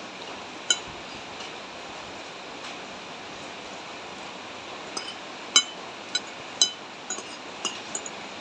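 Steady rain hiss with sharp, ringing clinks of a spoon against a soup bowl: one under a second in, then a run of about seven in the last three and a half seconds.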